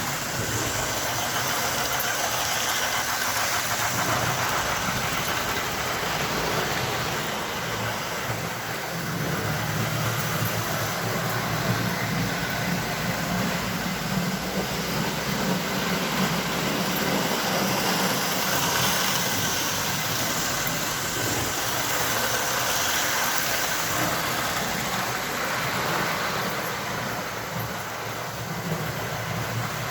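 S-gauge model steam locomotive, a rebuilt Gilbert American Flyer streamlined Pacific, running steadily along the track: its motor and the wheels rolling on the rails, with the tender's digital sound board playing steam-engine sounds.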